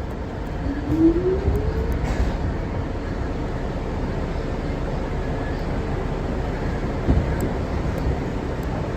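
R62 subway train running, a steady low rumble with a short rising whine about a second in.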